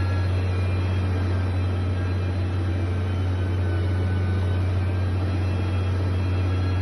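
Heavy construction machine engine running steadily: a deep, even drone with a mechanical rumble over it.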